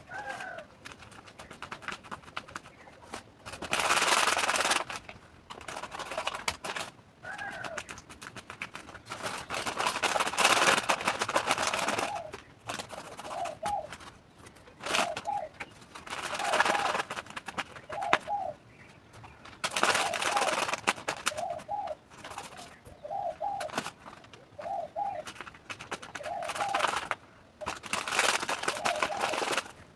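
A bird cooing: a short low call repeated about every second and a half, more regular in the second half. In between come several louder stretches of hiss-like noise, each lasting a second or two.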